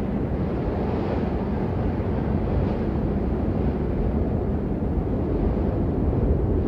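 Steady heavy rain: a dense, even wash of noise, fullest in the low range.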